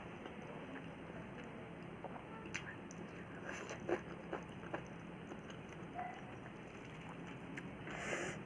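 Person eating a meal of rice, dal and vegetables by hand: quiet chewing with scattered small wet mouth clicks, and a brief louder noise near the end.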